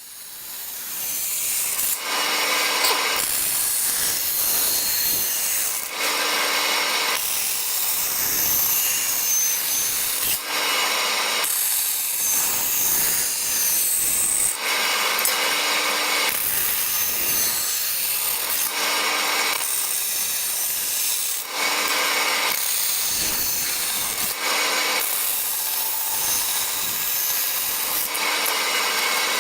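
Sped-up metalworking sounds from a sheet-metal part being drilled, cut on a bandsaw and filed, in short chopped segments that change abruptly every second or two.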